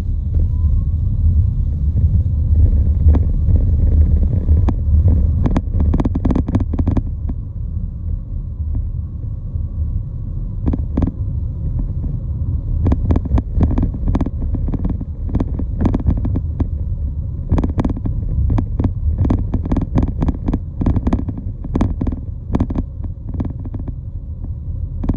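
Loud, steady low rumble with many irregular sharp clicks and knocks over it, thickest from about five seconds in.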